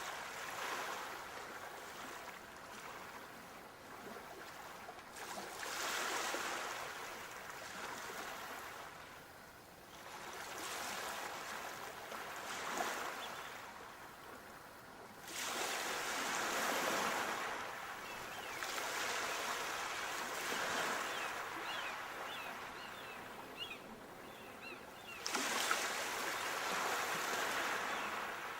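Sea waves breaking on the shore, surging in about every four to five seconds and hissing as they wash back, with two sharper breaks past the middle and near the end.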